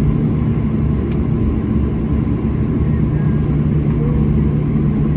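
Cabin noise of a Boeing 737-700 taxiing after landing: a steady low drone from the idling jet engines, with a constant hum.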